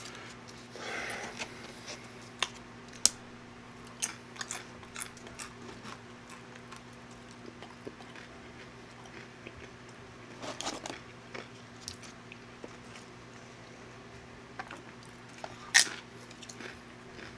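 Close-miked crunching and chewing of tortilla chips, with sharp crunches scattered through and the loudest near the end.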